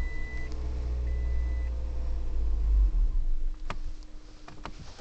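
2008 Toyota Prius key-in-ignition reminder chime beeping, two short high beeps about a second apart at the start, over a low rumble that fades out about three seconds in. A sharp click follows near the four-second mark.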